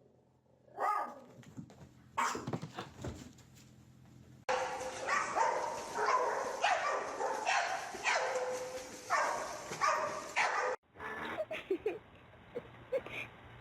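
A dog barking and yelping in a quick run of short calls that fills the middle of the stretch, with quieter, sparser sounds before and after.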